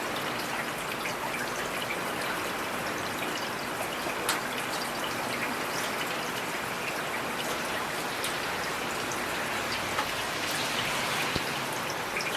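Heavy rain falling steadily as a dense even hiss, with scattered sharper drop impacts ticking through it.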